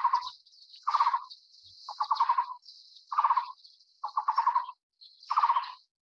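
Bird calling: a short, rapid trill repeated about once a second, six times, with a high hissing buzz running almost throughout.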